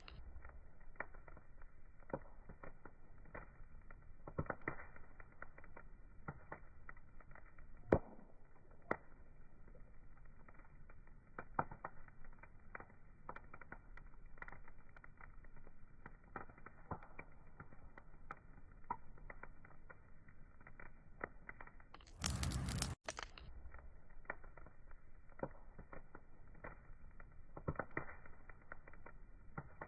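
Wood fire crackling, with scattered sharp pops over a low hiss, muffled and lacking treble. About three-quarters of the way through, a louder rush of noise lasts about a second.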